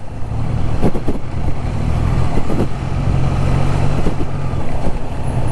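Triumph Trident 660's three-cylinder engine running steadily while riding, under a steady rush of wind and road noise.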